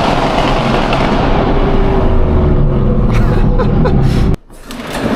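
Straight-piped Audi R8 V10 exhaust running loud, then easing off the throttle with a string of crackles and pops. The sound cuts off suddenly just over four seconds in and picks up again near the end.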